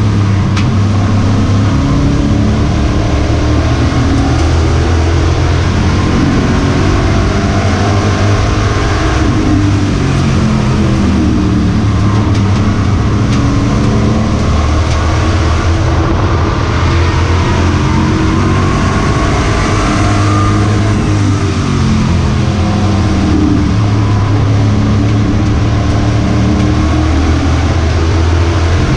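V8 engines of pro-series racing trucks running hard on an oval, the engine note rising and falling through the laps without a break.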